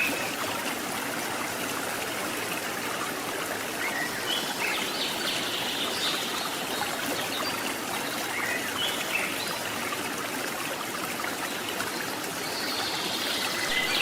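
Steady rush of river water flowing over the top of a waterfall, with a few short high bird chirps now and then.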